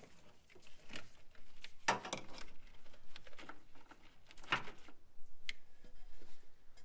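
A mass airflow sensor connector being unplugged and the air intake pipe worked loose by hand: a few sharp plastic clicks and knocks with rustling between them, the loudest about two seconds in and again about four and a half seconds in.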